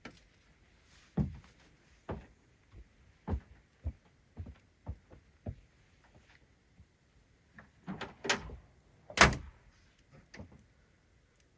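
A series of irregular knocks and thumps, with the loudest few close together about eight to nine seconds in.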